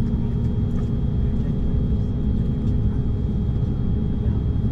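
Steady cabin noise of an Embraer 190-E2 airliner, its Pratt & Whitney geared turbofan engines running: a constant low rumble with a few steady humming tones, heard from inside the passenger cabin.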